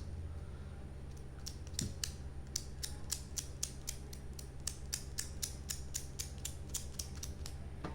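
Adhesive dust-removal sticker being dabbed across a phone's glass screen to lift off lint. Each lift off the glass gives a short, sharp sticky click, about four to five a second, over a steady low hum.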